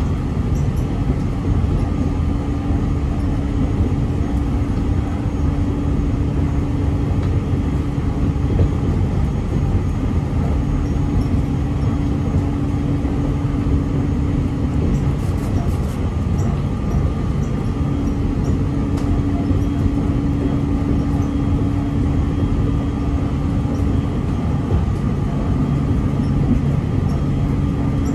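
Aoimori Railway electric train running along the line, heard from inside the passenger car: a steady rumble of wheels and running gear. A low hum drops out twice, about halfway through and again near the end.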